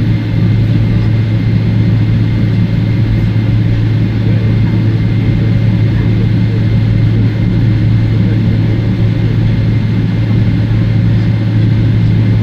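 Steady cabin drone of a Boeing 777-300ER taxiing, its GE90 engines at taxi power: a strong, unchanging low hum with a thin steady whine above it.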